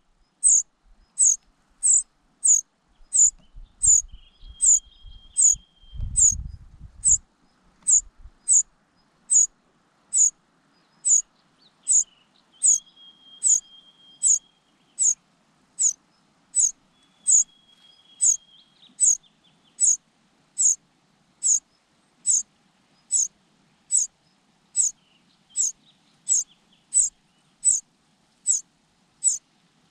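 Cuckoo chick begging: a short, high-pitched call repeated very evenly, about one and a half times a second, without pause. A thinner, lower drawn-out note sounds a few times alongside, and a low rumble comes briefly about four to seven seconds in.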